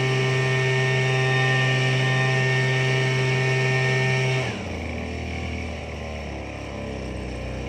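Tractor engine running steadily at high speed; about four and a half seconds in, the revs drop and it settles to a lower, quieter idle.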